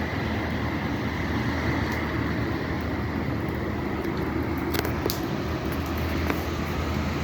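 Steady rumble of car traffic on rain-wet city streets, with rain hiss mixed in and two brief sharp clicks about five seconds in.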